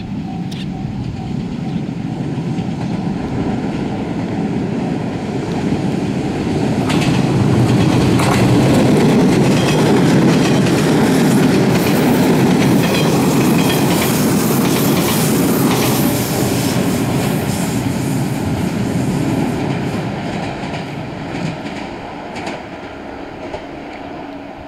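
A JR West 115 series electric multiple unit, two sets coupled, passes by. Its rumble builds, is loudest with clickety-clack of wheels over rail joints as the cars go past about a third of the way in, then fades as it moves away.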